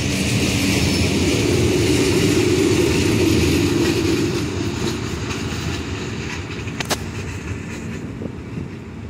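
A rake of passenger coaches rolling along the track while being shunted by an SM42 diesel shunting locomotive, with the wheels rumbling on the rails and the diesel engine running. The noise is strongest in the first few seconds and then slowly fades as the train moves off. There is one short sharp knock about seven seconds in.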